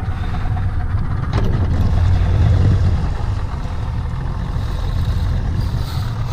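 Boat motor running as the boat moves off after a hooked fish, a steady low rumble that swells around two to three seconds in and then settles.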